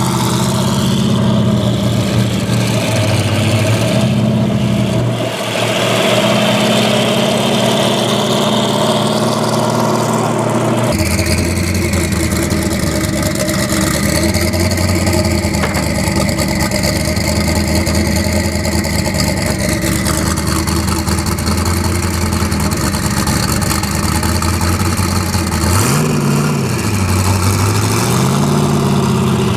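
Saleen S7 Twin Turbo's twin-turbocharged V8 running at low revs, mostly steady. Its pitch dips and rises about four seconds in and again near the end.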